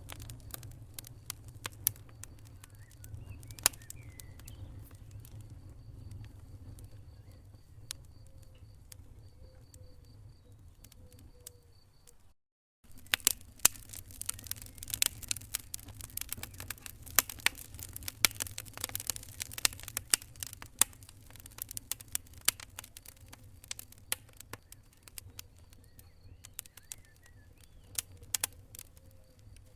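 Wood fire crackling in a fireplace: irregular sharp pops and snaps over a low rumble of the burning logs. The sound cuts out briefly about twelve seconds in, and the crackling is denser and louder after the break.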